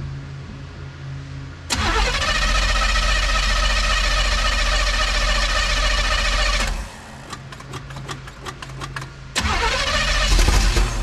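1971 Chevelle wagon's engine being cranked over by the starter on a cold start after two months of sitting: about five seconds of steady cranking that doesn't catch, then a second crank begins near the end.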